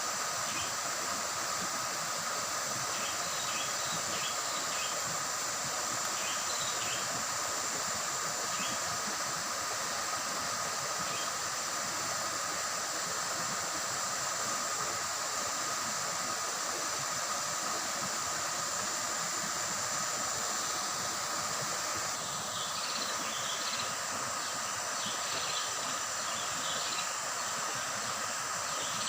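Shallow river water babbling over rocks in a steady rush, with a steady high insect drone and short bird chirps scattered through, more of them in the last several seconds.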